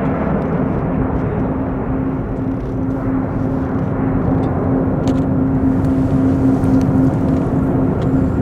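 Jet airliner engines running, a steady drone with a held humming tone, growing slightly louder in the second half.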